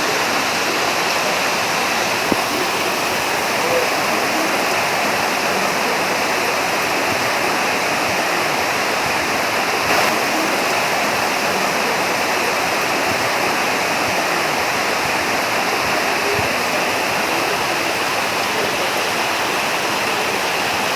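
Heavy rain falling steadily, a dense even hiss, with a couple of louder drops standing out.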